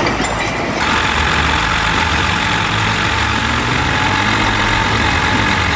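A heavy machine's engine running steadily, with a steady higher hiss joining about a second in.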